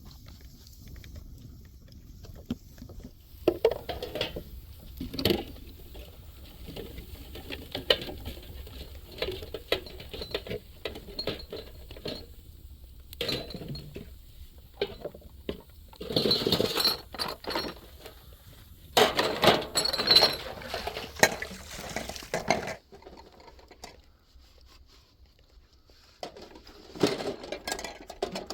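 Irregular clinking and clattering of handled objects: scattered knocks and clicks, with busier clattering bursts in the middle, a quieter pause, then more knocks near the end.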